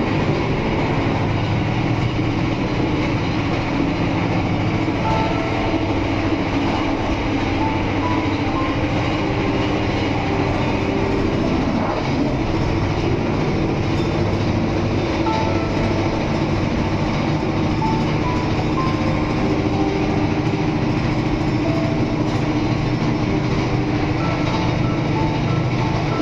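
Steady running rumble of a KAI Panoramic passenger train in motion, heard from inside a carriage, with short faint squeaks now and then.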